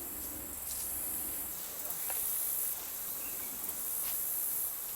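Outdoor insect chorus: a steady, high-pitched hiss-like drone, with a few faint small clicks.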